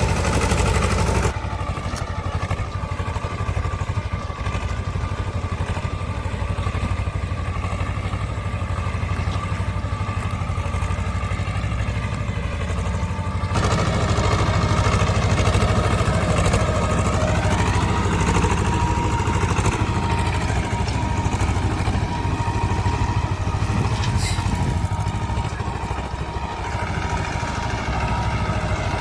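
Swaraj tractor's diesel engine running steadily, with a low hum. The sound drops a little about a second in and grows louder again about 13 seconds in.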